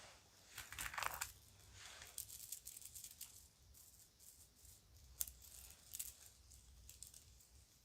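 Children's jewelry rattling and clicking softly as it is handled, with a brief rustle about a second in and a few sharper single clicks later.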